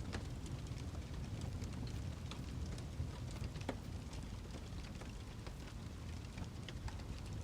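Wood fire crackling: a steady low rumble with irregular sharp pops and snaps scattered throughout. The clearer snaps come at the very start and at about two and a half and three and a half seconds in.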